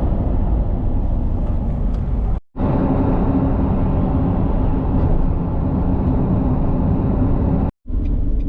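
Steady low road and engine rumble of a car heard from inside the cabin while driving, broken twice by abrupt cuts.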